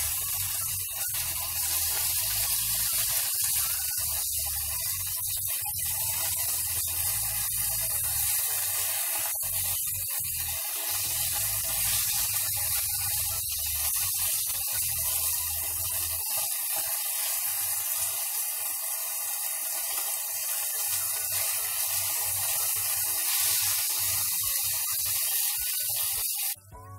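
Chicken strips sizzling as they fry and brown in oil in a nonstick frying pan: a steady hiss that stops abruptly near the end.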